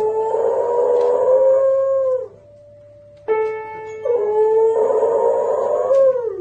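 A dog howling along to piano music: two long howls of about two seconds each, each holding its pitch and then dropping off at the end.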